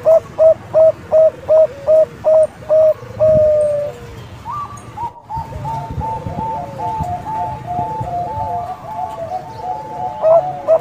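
Bangkok-strain zebra dove (perkutut) cooing: a run of short, evenly spaced coos about four a second, ending in a longer held note. After a brief break comes a faster rolling series of coos, and near the end the short spaced coos start again.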